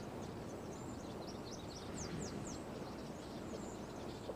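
Small birds chirping faintly: a quick run of short, high, downward-sliding notes in the first half, over a steady outdoor background hiss.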